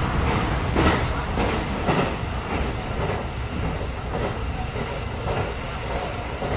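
Passenger train running on the line: a steady low rumble with irregular clacks from the wheels on the track, easing off slightly.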